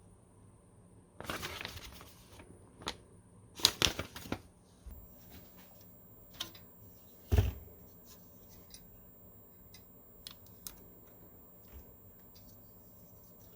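Hands handling PC components and their packaging: a rustle about a second in, a quick cluster of sharp clicks, then a single dull knock, with faint ticks and taps after.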